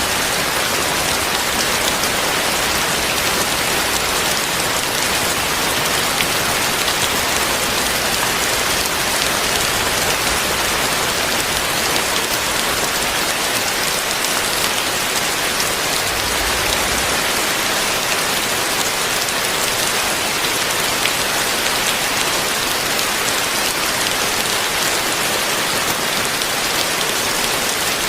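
Heavy rain falling steadily, a dense even hiss of drops on surfaces with no breaks or thunderclaps.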